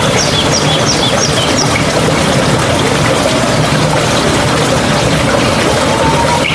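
Steady rushing and babbling of a mountain stream. A bird gives a quick run of about five high chirps in the first couple of seconds.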